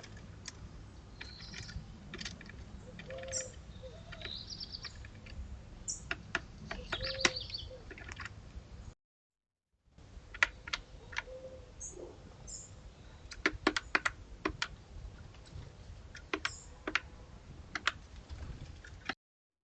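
Small garden birds giving short, high chirps and calls over many sharp, irregular clicks and taps, at times several in quick succession.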